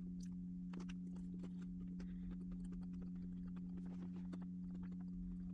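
Chewing and biting into a soft toast topped with Greek yogurt and banana, heard as many small wet mouth clicks. Under it, soft background music holds two long steady notes.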